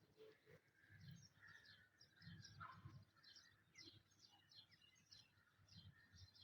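Near silence, with faint birds chirping in the background.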